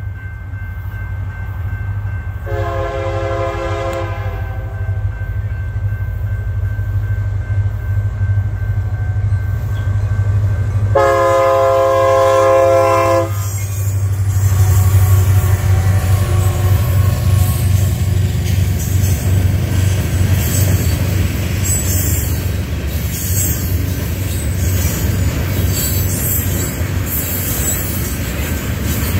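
Union Pacific diesel freight locomotive approaching and passing a grade crossing, its engine running low throughout and its horn sounding two blasts: a shorter one about two and a half seconds in and a longer one around eleven seconds in. From about fourteen seconds on, the steady rolling noise of tank cars passing takes over.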